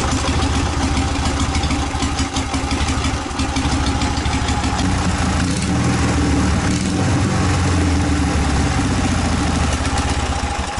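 Ural motorcycle's air-cooled flat-twin engine, police version, running on a test stand just after a kick start. It idles steadily and evenly, its carburettors freshly adjusted so that both cylinders now fire properly.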